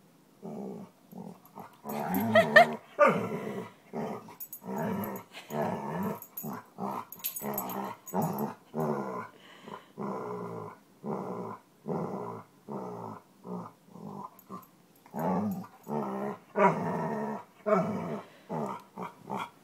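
Dog growling in a long string of growls, a little over one a second, loudest about two seconds in: a displeased warning growl.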